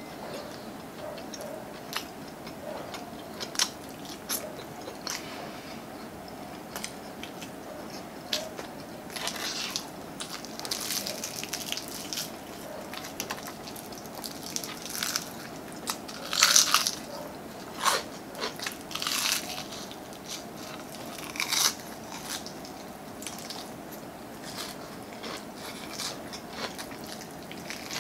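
Close-up eating sounds of crispy fried chicken: crunching bites and chewing of the breaded skin, with scattered small crunches and a run of louder crunches in the middle.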